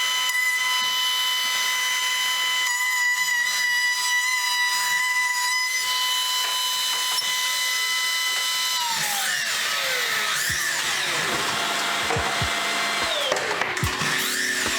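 Electric power tool motor running with a steady high whine, wavering briefly as it takes load. About nine seconds in it drops in pitch as the tool winds down, followed by a mix of shifting tones and a few knocks.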